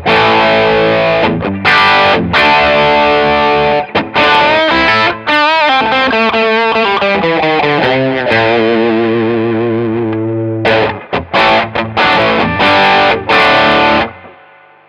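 Eastman SB59/v electric guitar played through an MXR Sugar Drive overdrive pedal into the clean channel of a Mesa Boogie Express 5:50+ valve amp: overdriven blues-rock chords and held notes, with a wavering vibrato phrase in the middle. The pedal is used to make the clean channel sound like the amp's blues channel. The playing stops about a second before the end, leaving amp hum.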